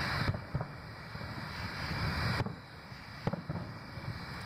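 Distant aerial fireworks shells booming: several sharp reports over a steady rushing noise that fades about two and a half seconds in.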